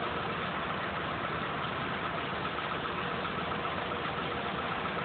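Steady engine rumble of vehicles idling at a closed level crossing, with a faint thin high tone running through it.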